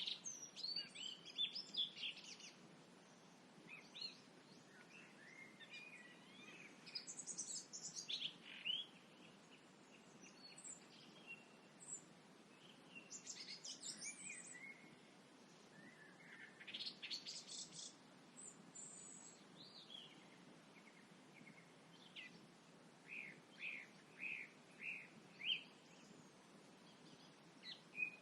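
Songbirds singing: short bursts of chirps and trills that come and go, with a run of about six evenly spaced notes near the end, over a faint low background hum.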